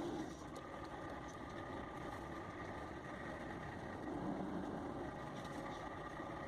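A vehicle engine running steadily and faintly, with a slight swell about four seconds in.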